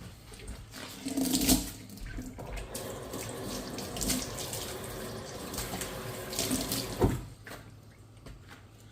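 Water running from a kitchen tap into a sink while dishes are washed, with clinks and splashes about a second in. The water stops abruptly with a knock near the end, and a few light taps follow.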